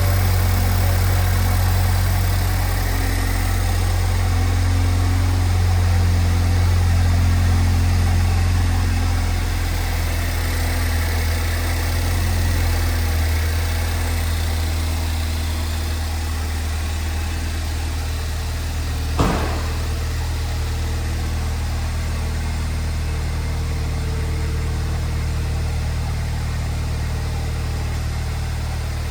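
2008 Saturn Sky's 2.0L four-cylinder engine idling steadily, its low hum easing slightly about halfway through. One sharp click sounds about two-thirds of the way in.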